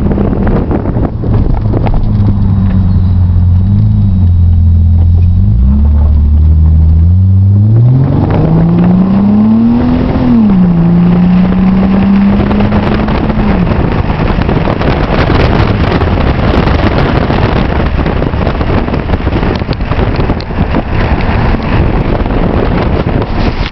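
2002 Nissan Maxima's 3.5-litre V6 through a new aftermarket muffler, heard from inside the cabin. It starts with a low steady drone, then the engine note rises under acceleration, drops at a gear change about ten seconds in and climbs again. After that a loud, steady rush of wind and road noise covers it.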